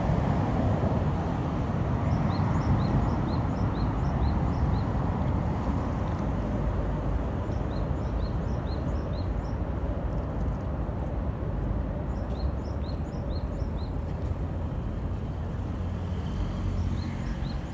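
A bird's short high chirps, in quick runs of about five or six at roughly four a second, repeated four times over a steady low rumbling background noise.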